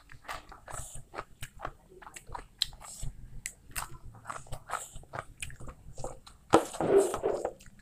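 Close-up eating sounds of rice and beef curry eaten by hand: wet chewing, lip smacks and many short clicks, with a louder, longer burst of noise near the end.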